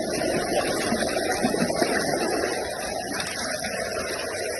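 Water rushing and churning steadily, an even wash of noise that keeps up throughout.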